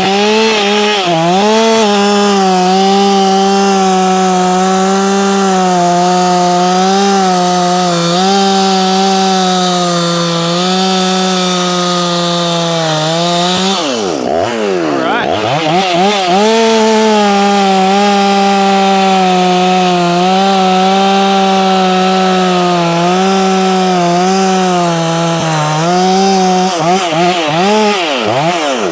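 Ported Efco 165 two-stroke chainsaw held at full throttle, cutting along the grain of wood, its pitch wavering slightly under load. About halfway the revs fall away sharply and climb back, and they dip briefly near the end. Chips are packing into the clutch cover during the rip cut.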